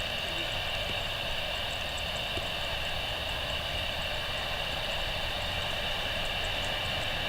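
Steady hiss of heavy rain, with faint tiny ticks of drops and a low rumble underneath.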